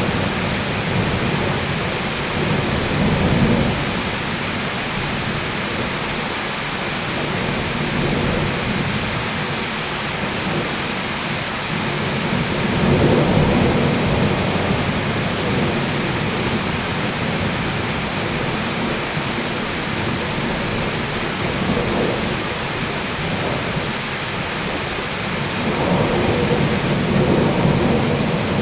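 Steady heavy rain in a thunderstorm, with low rolls of thunder swelling up four times.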